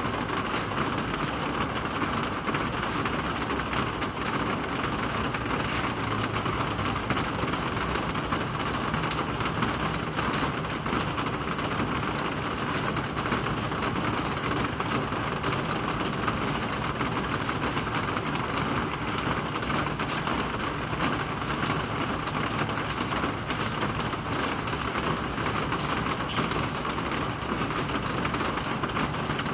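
Steady rain falling, an even hiss that neither builds nor breaks.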